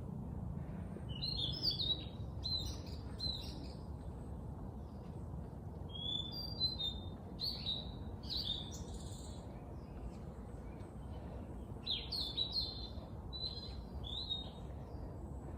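A bird singing short bouts of quick chirping notes, three bouts a few seconds apart, over a steady low background rumble.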